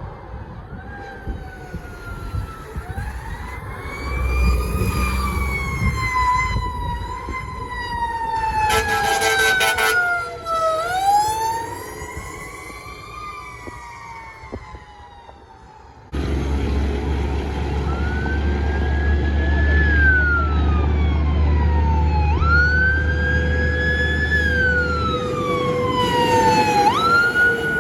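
Fire rescue truck sirens wailing, the pitch sweeping up and down, with a short horn blast about a third of the way in. After a sudden change partway through, another siren wails over the low rumble of a passing truck.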